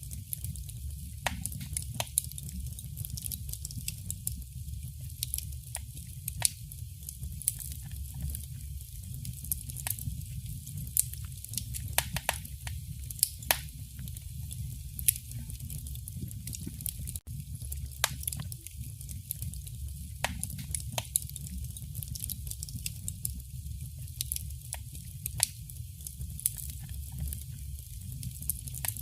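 Wood fire crackling in a fireplace: irregular sharp pops and crackles, several a second, over a steady low rumble of the burning fire.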